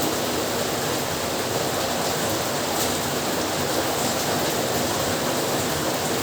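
Heavy rain falling steadily: a dense, even hiss of downpour with a few faint drop ticks.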